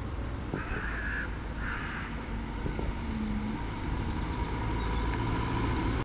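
Outdoor birds: two harsh calls in quick succession about a second in, with faint high chirps of small birds scattered through, over a steady low rumble. The recording cuts off suddenly at the end.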